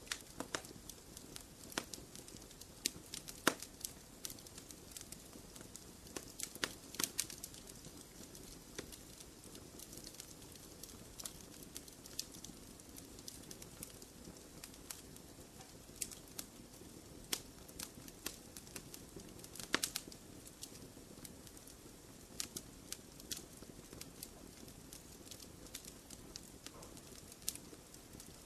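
Wood fire crackling in a fireplace: irregular sharp pops and snaps, several a second at times, over a soft steady rush of the flames.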